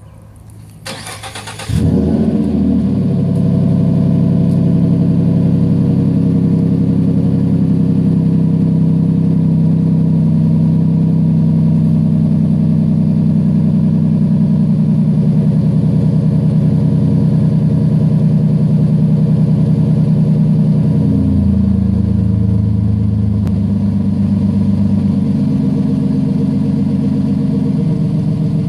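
A 2013 Ford F-150's 3.7-litre V6 is cranked briefly and starts, then idles through a Flowmaster Super 40 dual exhaust with a steady, deep exhaust note. About 21 seconds in, the idle drops to a lower speed and settles.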